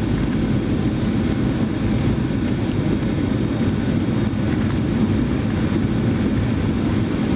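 Steady cabin noise inside a Boeing 737-900ER on approach: a low rushing drone of airflow and its CFM56 turbofan engines, with a faint steady high whine above it.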